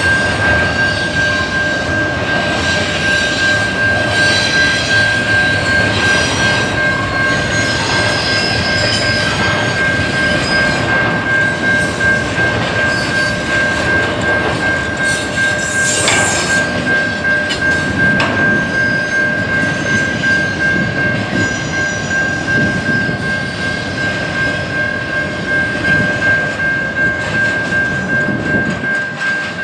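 Train cars rolling past with a continuous rumble and clatter of wheels on rail, over a steady high-pitched tone that holds throughout.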